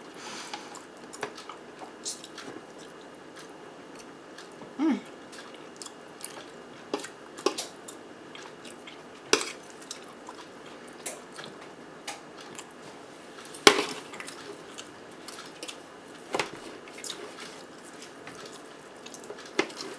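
Close-miked eating of a zucchini boat with melted cheese and ground turkey: soft chewing and mouth sounds, broken by occasional sharp clicks, the loudest about nine and fourteen seconds in, and a short hum about five seconds in.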